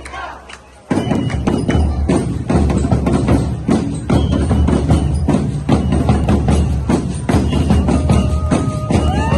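Drum-heavy Sinulog festival music with a fast steady beat and rattling percussion, which drops out briefly and comes back in about a second in.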